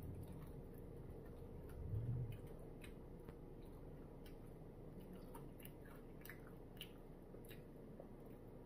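Faint chewing of a man eating chicken wings, with scattered small wet mouth clicks and a brief low thump about two seconds in.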